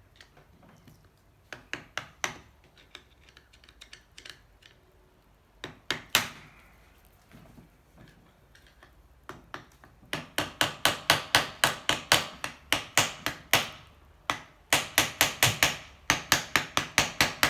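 Hammer blows on the seized cylinder of a 1984 Honda C70 engine, trying to drive it off a piston stuck fast by corrosion. A few separate strikes come first, then two fast runs of about five blows a second.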